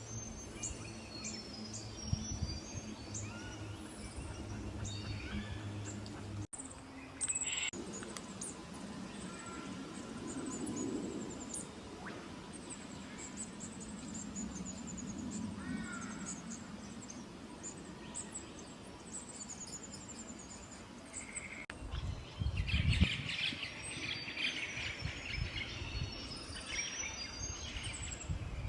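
Small birds calling and singing in a series of high, thin chirps and short trills, with a denser spell of chattering calls late on, over a low background rumble.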